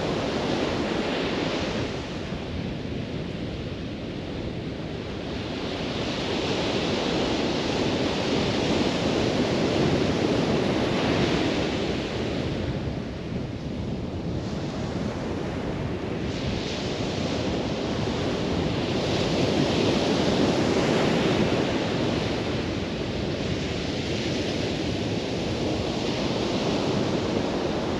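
Ocean surf breaking and washing up a beach, with wind buffeting the microphone, swelling and easing every few seconds.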